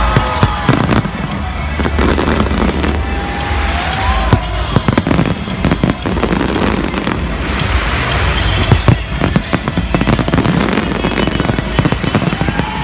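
Fireworks exploding in a display: many sharp bangs and crackles, some in quick clusters, over loud accompanying music.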